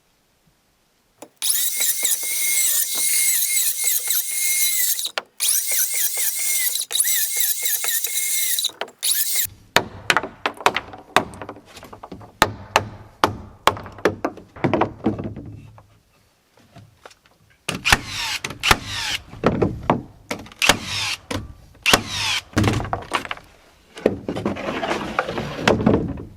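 Power tool working on wood framing: a steady high-pitched whine for several seconds, broken briefly once, then bursts of rapid clattering and ratcheting with dull knocks.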